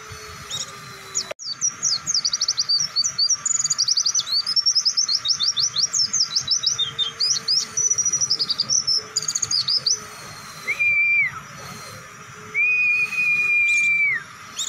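White-eye (pleci) singing a long, fast run of high, twittering notes for about eight seconds, then two long, flat, steady whistles, the second one longer.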